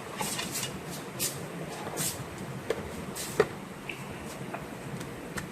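A few light clicks and knocks over a steady low hum, the sharpest about three and a half seconds in.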